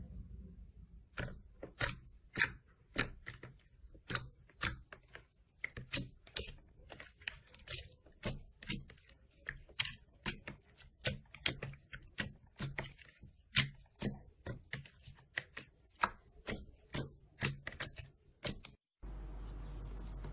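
Slime being pressed and squeezed by hand, giving irregular sharp crackles and pops, about two or three a second. The crackling stops suddenly near the end and a steady low hum follows.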